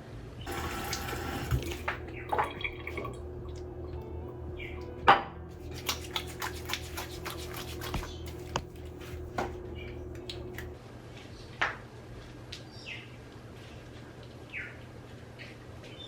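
Small clicks and taps of skincare containers being handled at a bathroom sink, with a short splash of running water near the start. A steady low hum stops about eleven seconds in.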